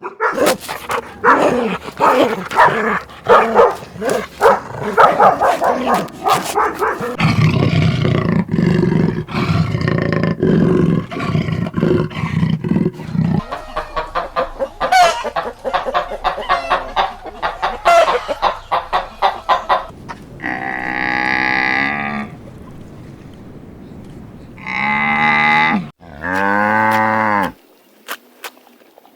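Animal sounds: dense, rapid clicking and croak-like calls for most of the stretch, then three separate drawn-out pitched calls near the end.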